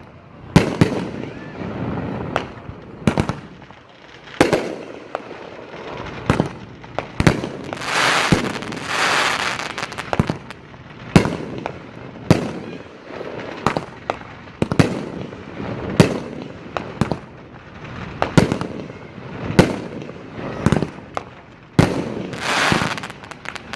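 A 500-gram consumer fireworks cake firing. Sharp reports come about once a second, with stretches of crackling hiss in between.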